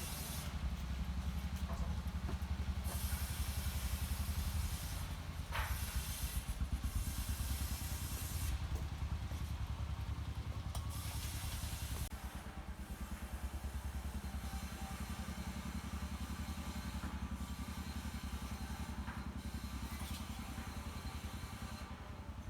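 A motor running steadily with a fast low pulse, with stretches of hiss coming and going over it.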